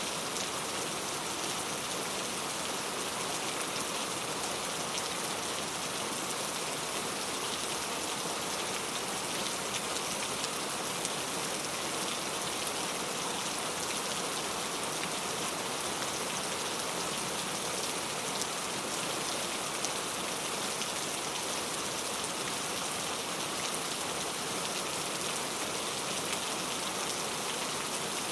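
Steady rain falling: an even hiss of many fine drops that does not let up.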